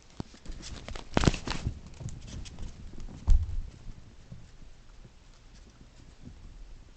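Irregular taps and knocks of handling, with a louder clatter about a second in and a heavy thump about three seconds in, then fainter scattered taps.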